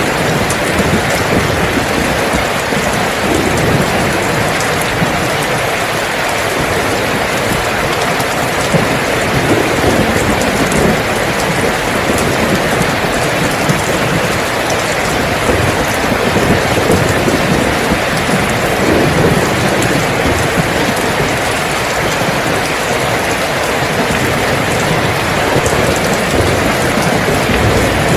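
Steady heavy rainfall: a dense, even hiss of rain on surfaces, with a shifting low rumble underneath.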